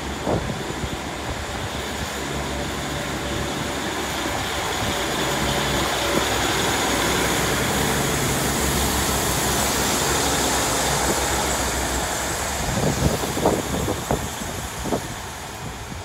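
Class 150 diesel multiple unit pulling out of the station. The sound of its underfloor diesel engines and its wheels on the rails builds steadily to a peak about halfway through, then fades as it draws away. A few sharp knocks come near the end.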